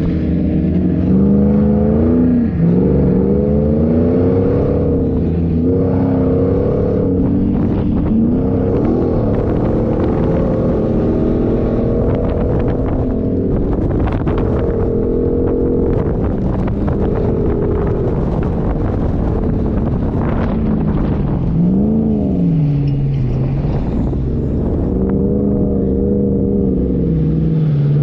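A 4x4's engine revving up and falling back again and again while driving off-road, with scattered knocks and rattles.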